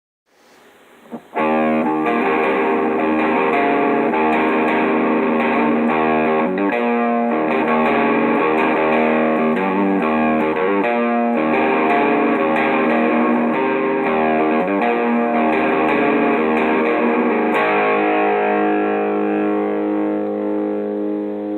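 Electric guitar (an Ibanez Destroyer) played through an Electro-Harmonix Screaming Bird treble booster into a 6L6 valve amp: ringing chords and riffs that start about a second in and change every few seconds.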